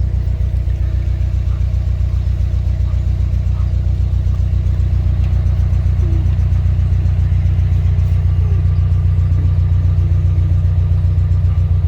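A small canal boat's engine running steadily at low revs, a low, evenly pulsing rumble.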